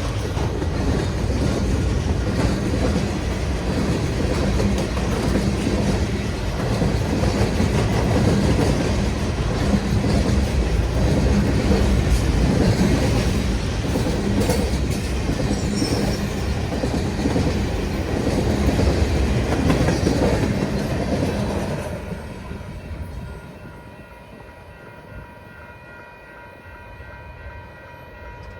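Loud steady rumbling and rattling that dies down about 22 seconds in, leaving a fainter hum with a few steady tones.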